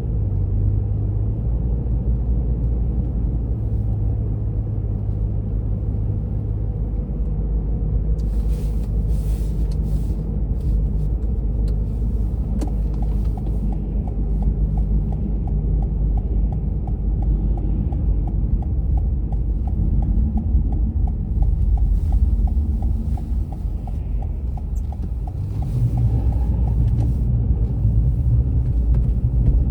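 A car driving along on a winter road, a steady low rumble of tyres and engine, with a faint, even ticking through the middle stretch.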